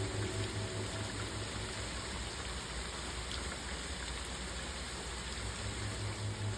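Steady rain falling, a constant even hiss. A soft pulsing music bed fades out near the start, leaving the rain alone.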